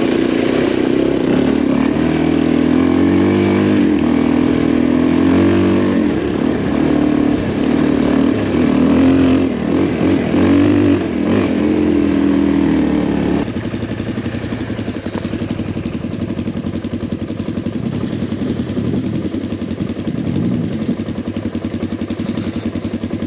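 Adventure motorcycle engine running under a rider on a rough track, its pitch rising and falling as the throttle is worked. About thirteen seconds in it drops suddenly to a quieter, steadier, lower note.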